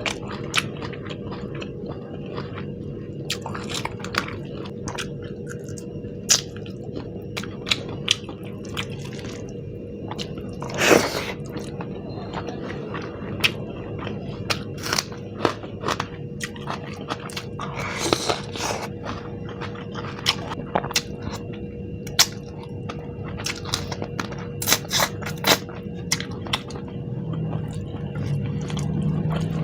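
Close-miked eating: chewing with frequent short crunches and wet mouth clicks, and two longer crunchy bites about eleven and eighteen seconds in, over a faint steady hum.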